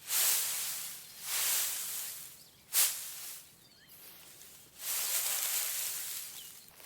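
Repeated swells of hissing, rustling noise, each lasting about a second, with a short sharp one a little under three seconds in and a couple of faint high chirps in the middle.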